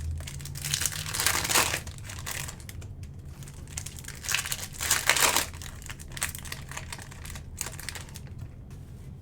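Foil trading-card pack wrappers crinkling and tearing as the packs from a box of Topps Cosmic Chrome baseball cards are ripped open, in irregular surges, the loudest about halfway through.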